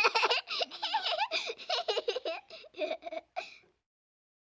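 Young child laughing and giggling in a quick string of short, high bursts. It cuts off suddenly a little over three and a half seconds in.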